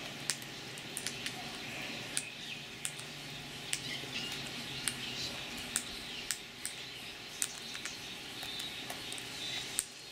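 Birds feeding at close range: irregular sharp clicks and taps of beaks pecking at food, with faint bird chirps.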